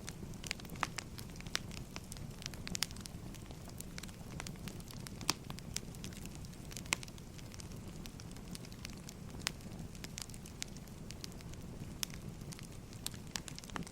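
Crackling wood fire: burning firewood giving irregular sharp pops and snaps over a steady low rumble of the flames.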